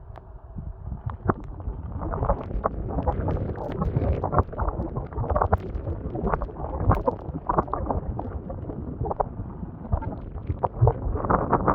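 Strong gusting wind buffeting the microphone, with many irregular sharp crackles and flaps through it. It picks up about two seconds in.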